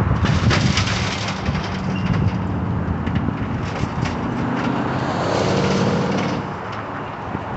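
Heavy diesel demolition machinery running, with a burst of clattering and crunching debris in the first second or so and the engine swelling briefly near the end.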